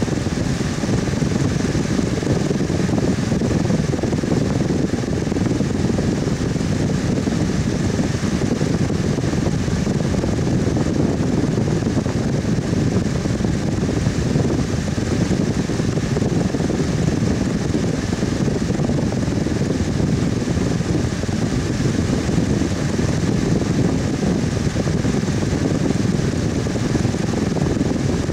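Electric fan running steadily: a continuous whooshing air noise, deepest at the low end, with a faint steady hum above it and no change in speed.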